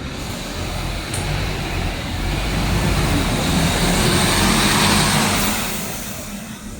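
Scania K280UB city bus driving past under power, its diesel engine rumble and road noise growing louder to a peak about four to five seconds in, then fading as it moves away.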